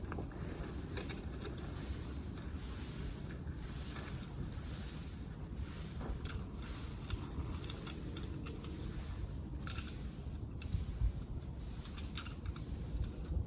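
Scattered rustling, scraping and light clicking of gear being handled, over a steady low rumble.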